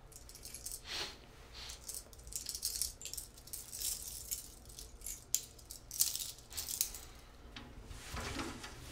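Irregular rustling and light rattling of a satin boxing robe being handled, with a fuller swish about eight seconds in as the robe is lifted off.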